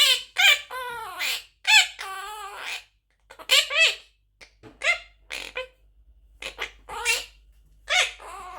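Young monk parakeet giving a string of short, high, squawky calls, about a dozen with brief gaps between them, a few of them raspier than the rest.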